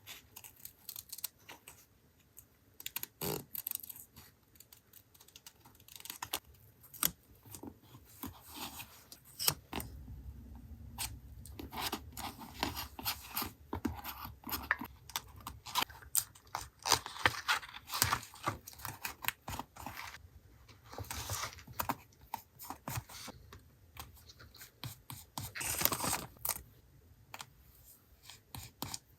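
Paper-crafting sounds from journal collage work: paper and stickers being handled, with many small taps, crinkles and rustles, and a longer rustle near the end.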